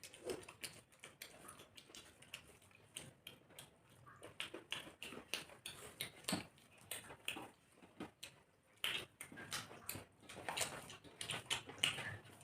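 People eating rice and chicken curry: chewing and wet mouth smacking, many short irregular clicks with now and then a light clink of dishes.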